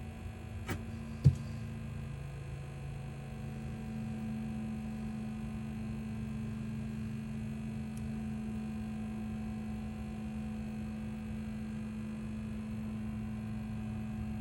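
Diesel air heater's fan running with a steady hum during its start-up cycle, while the glow plug preheats. A single sharp click comes about a second in.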